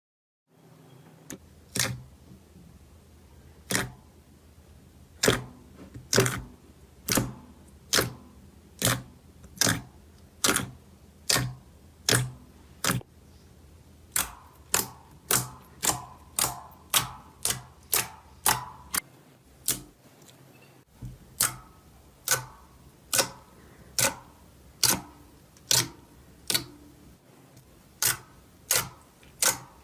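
A long series of sharp clicks, roughly one to two a second and coming faster toward the end, some with a short ringing tail.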